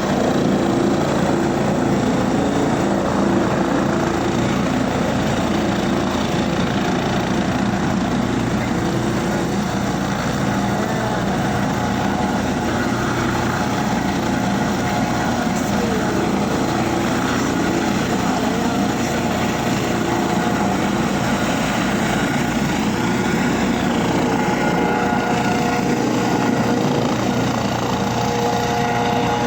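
Helicopter in flight: its turbine engine and rotors make a loud, steady drone that does not let up.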